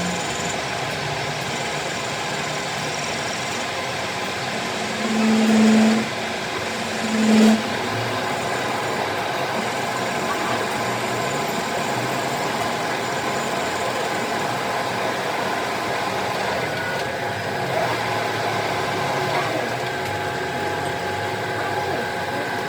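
Workshop machinery running steadily, with two short, louder pitched tones about five and seven and a half seconds in.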